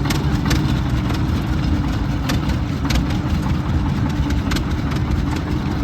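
Antique tractor engine idling steadily with a low rumble, with a few sharp clicks at uneven intervals.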